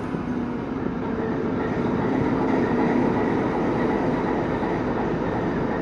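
TEP70 diesel locomotive's 16-cylinder 2A-5D49 diesel engine running steadily just after starting, its governor holding a steady speed.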